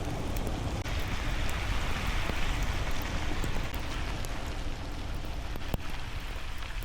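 Steady rushing noise of wind and wet snow, with a heavy low rumble and scattered light ticks.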